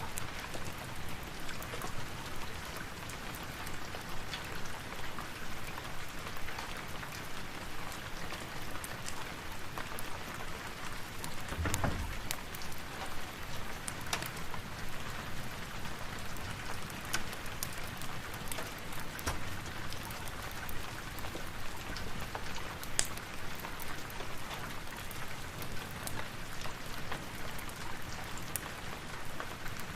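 Steady rain pattering, layered with the small sharp crackles of a fireplace fire. A single low thump sounds about twelve seconds in.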